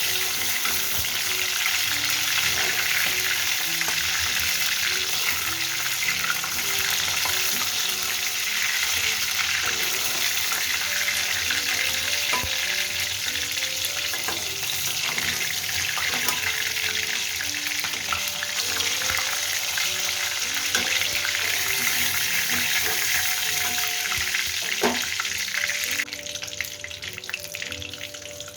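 Chicken pieces shallow-frying in hot refined oil, a steady sizzle that drops away sharply near the end, with soft background music underneath.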